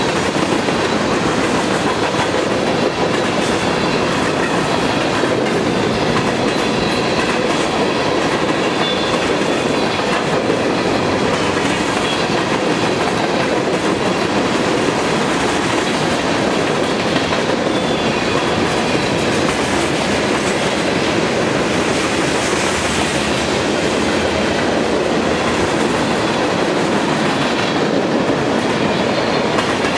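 Freight train of tank cars and boxcars rolling past at speed: a loud, steady clatter and rumble of steel wheels on the rails.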